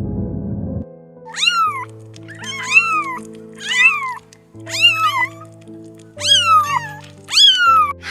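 A domestic cat meowing six times, about once a second, each meow rising and then falling in pitch, over background music of held notes.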